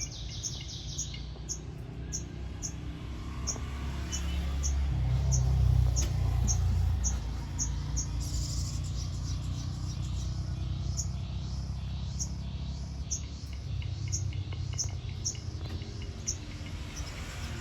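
Sogon bird singing: short, high chirps repeated steadily about twice a second, over a low rumble.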